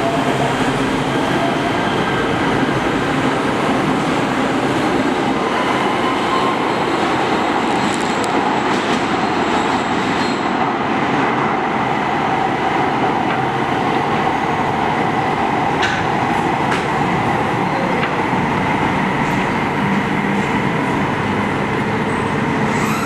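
Los Angeles Metro Rail train running in an underground station: a steady, loud rumble with a faint whine, and a couple of sharp clicks partway through.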